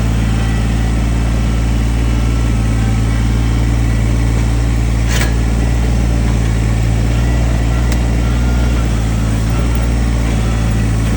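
Diesel engine of a Kubota earthmoving machine running steadily at a constant speed, with a deep even hum. A single sharp knock sounds about halfway through.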